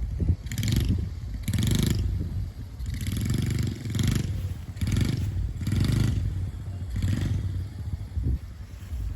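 Small four-stroke engine of a Honda CRF50 mini dirt bike running, its sound swelling and fading repeatedly as the throttle and distance change.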